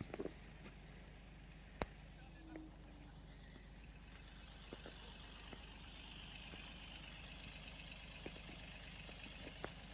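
Faint, steady hum of a car engine idling, with one sharp click about two seconds in and a few soft ticks later.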